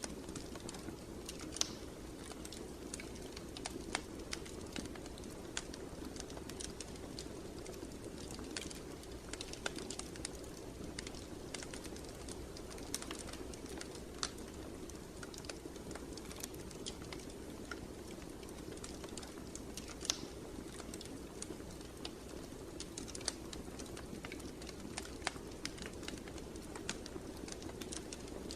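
Wood fire burning in a fireplace, crackling and popping: irregular sharp snaps, a few every second, over a steady low rush of the flames.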